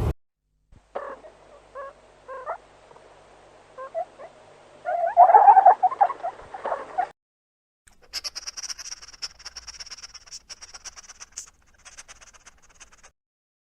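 Animal calls: a few short calls, then a louder cluster of calls about five seconds in. After a short gap comes a high, steady trill with fine rapid ticks, which runs until near the end.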